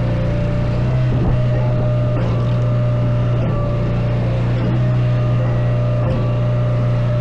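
An engine running at a steady speed, a constant low hum that does not rise or fall.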